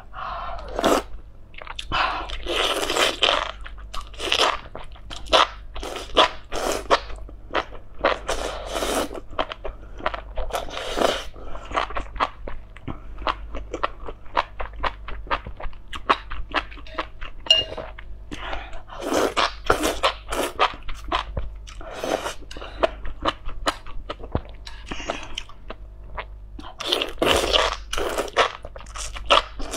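Close-up eating sounds: spicy enoki mushroom strands being slurped in and chewed, with many quick crisp crunches and squishes. Longer slurps come several times, around 2–3 s in, near 9 s, near 20 s and again near the end.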